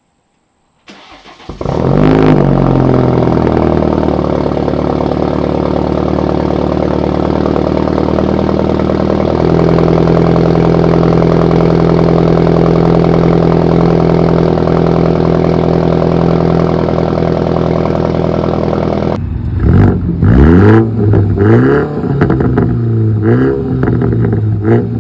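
BMW 430i's B46/B48 turbocharged four-cylinder engine cold-starting: a short crank about a second in, catching with a flare of revs, then settling into a steady, raised cold idle. Near the end it is revved in several quick blips, the exhaust note rising and falling each time.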